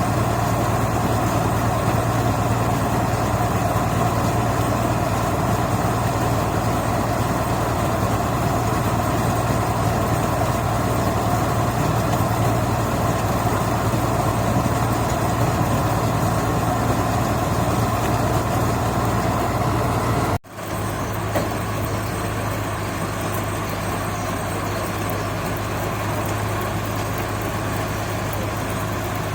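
Rice combine harvester engine running steadily with a constant low hum. About two-thirds of the way through, the sound breaks off for an instant and resumes slightly quieter and a little lower.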